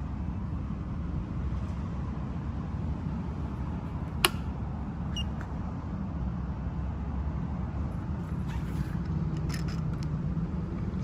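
PRO SPEC PSL450-VDR small benchtop lathe running, a steady low hum, with one sharp click about four seconds in and a few faint ticks later on.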